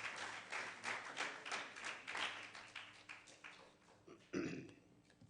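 A congregation applauding after a hymn, the clapping thinning out and dying away over about three seconds. It ends with one brief thump about four seconds in.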